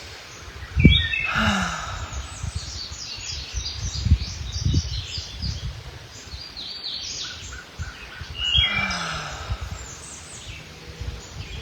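Songbirds chirping and singing throughout. Two long exhales out through the mouth, one about a second in and one near the end, are heard as sighing breaths. Low gusts of breeze rumble on the microphone.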